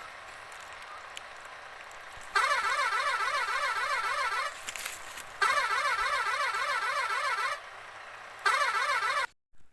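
Electronic warbling siren tone, its pitch quickly wavering up and down, sounding three times: two bursts of about two seconds and a short one near the end, over a faint background.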